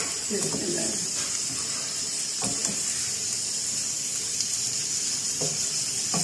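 Sliced onions and green garlic sizzling steadily as they fry in ghee in a non-stick pan. A few knocks of the spatula against the pan come as they are stirred.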